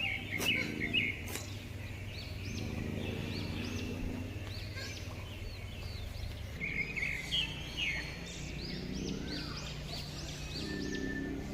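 Captive birds calling: many short rising-and-falling chirps repeat throughout. A lower, fuller call sounds about four times, with louder chattering near the start and again a little past the middle.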